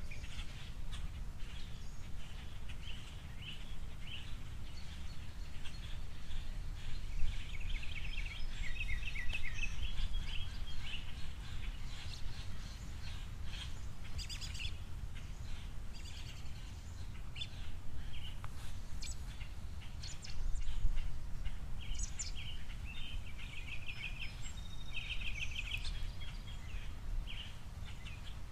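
Small songbirds chirping and twittering, with rapid runs of repeated notes about a third of the way in and again near the end, over a steady low background rumble.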